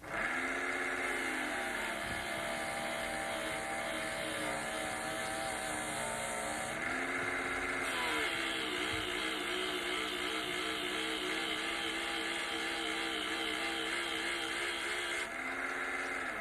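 Electric honing machine motor running steadily with its disc spinning, a humming tone whose pitch wavers and shifts a few times as a dental knife is worked against the disc.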